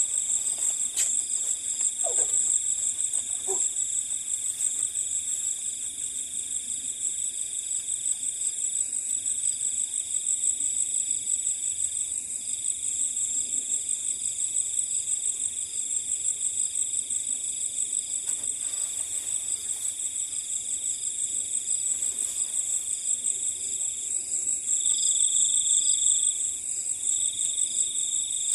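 Night chorus of crickets: two steady, high-pitched continuous trills, the lower one breaking off briefly a few times and growing louder near the end.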